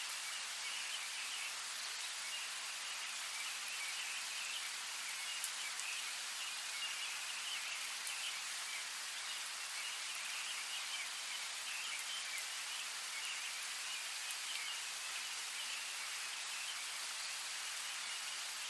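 Steady rain: an even hiss of falling rain with a few faint drop ticks scattered through it, weighted toward the high end.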